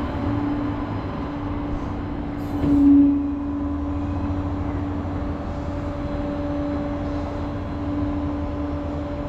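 Flatbed tow truck running, a steady drone with a constant hum that swells briefly about three seconds in.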